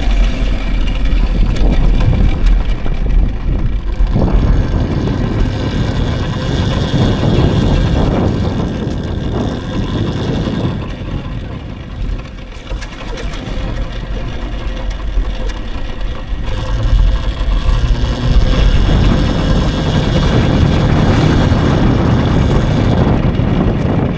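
Wind rushing over the microphone and tyre noise from a moving electric dirt bike, with deep rumbling buffets. It eases for a few seconds in the middle, then rises again.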